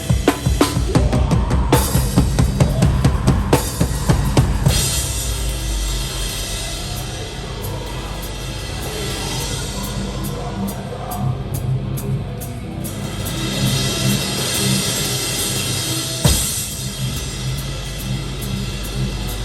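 Live hardcore/metalcore band heard from the drum kit. Fast kick and snare hits for about the first four seconds, then ringing cymbals over held low notes with fewer drum hits, and one heavy accented hit about sixteen seconds in.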